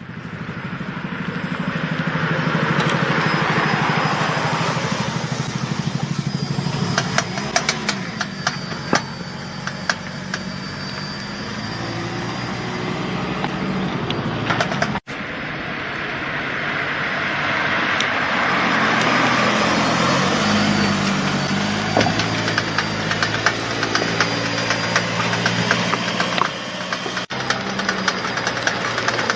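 Car driving, with engine and road noise and bursts of rapid clicking from a faulty axle shaft. The noise is typical of damage inside the outer constant velocity joint.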